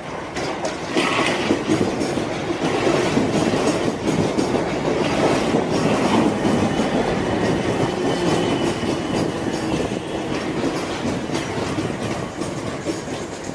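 Train running along the station platform, its wheels clattering over the rail joints. The sound swells about a second in, and a faint high wheel squeal comes through midway.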